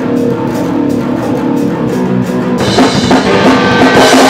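Rock band playing guitar and drum kit, the music getting fuller and louder a little past halfway through.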